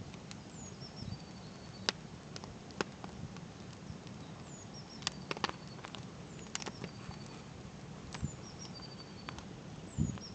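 Campfire crackling, with sharp irregular pops from the burning wood. A small songbird sings a short high phrase, a downward slur then a flat trill, repeated every few seconds.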